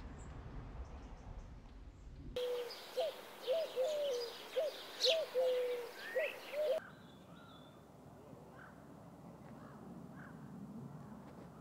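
Outdoor ambience in three parts: first a low rumble, then a bird giving a quick run of short, loud, clear calls that bend up and down in pitch, with small birds chirping higher above, and then fainter scattered birdsong.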